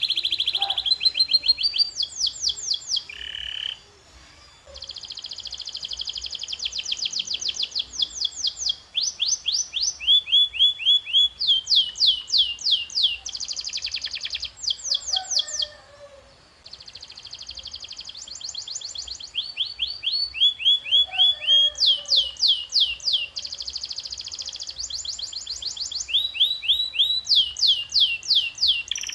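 Domestic canary singing: a long song made of rapid trills, each a fast run of the same high note repeated, switching to a new trill every second or two, with two short pauses, about four seconds in and midway.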